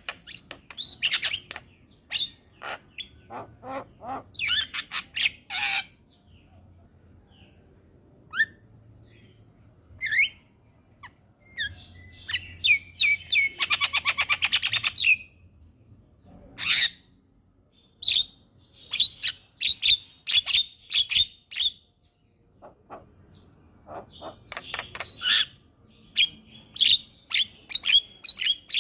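Black-winged starling (jalak kebo) singing in loud bursts of harsh whistles and chattering calls, with a fast buzzy rattle in the middle and short pauses between phrases.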